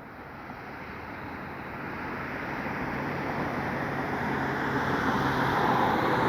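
Jet engines of a departing Frontier Airbus A320neo airliner, a steady roar that grows louder throughout as the aircraft comes closer.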